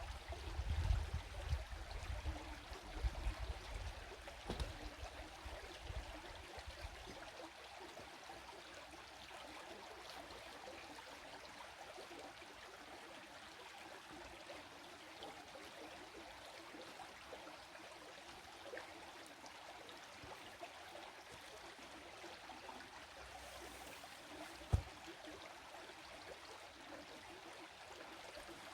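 Stream water flowing and trickling steadily. Low rumbling in the first seven seconds and a single sharp thump near the end.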